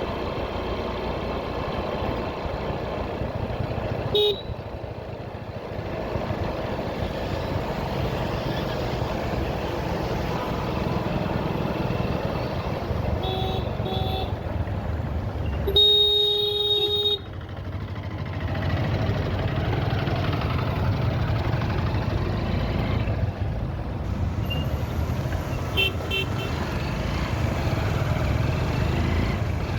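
Motorcycle riding through traffic: steady engine and road rumble, with vehicle horns honking several times. There is a short toot early on, a quick double toot, and then the loudest sound, a horn held for about a second and a half just past the middle. A few short beeps come near the end.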